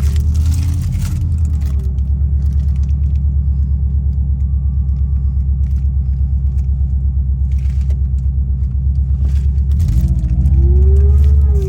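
Subaru EJ205 turbocharged flat-four running with an evenly pulsing low rumble, revved briefly just after the start and again near the end, the pitch rising and falling. The engine has an abnormal noise whose origin has not yet been found.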